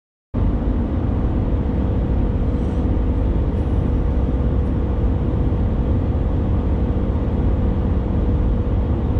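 Steady road noise and engine drone inside a moving vehicle, a low rumble with a faint steady hum; it starts abruptly about a third of a second in, after a moment of silence.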